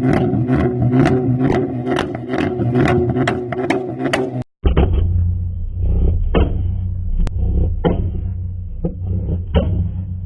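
Tuned Ford Focus ST exhaust popping and crackling, sharp cracks about three a second over a steady engine drone. After a cut comes a deeper, muffled exhaust rumble with a louder pop about once a second.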